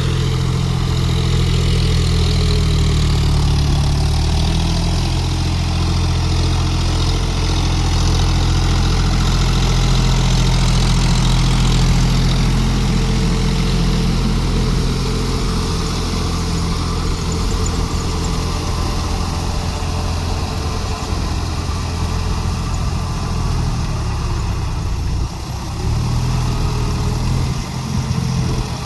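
John Deere 5050D tractor's three-cylinder diesel engine running continuously while working. Its pitch shifts a little in the first few seconds, and there are two brief dips near the end.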